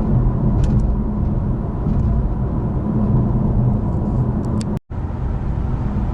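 Steady road and engine rumble heard from inside a moving car's cabin. It cuts out completely for a moment about five seconds in.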